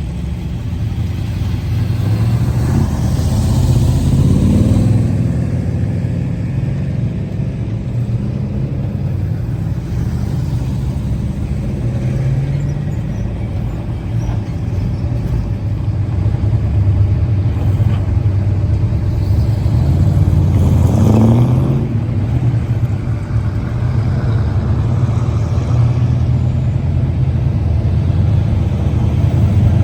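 A car engine running steadily, its pitch rising twice as the engine speeds up, once a few seconds in and again about two-thirds of the way through.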